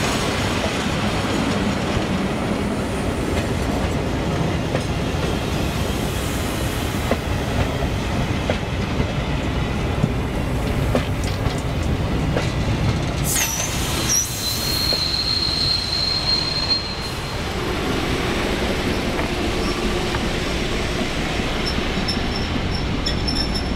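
Green K1 passenger coaches rolling slowly past, a steady rumble with wheels clicking over rail joints. About halfway through there is a high-pitched wheel squeal, first a brief glide and then a held note for about two seconds.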